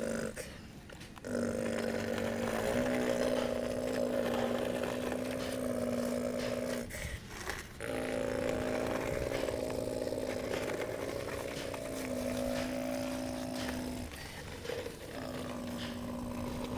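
Radio-controlled model excavator's motor and hydraulic pump whining at a steady pitch, stepping up slightly a few seconds in and cutting out briefly twice as the controls are let go.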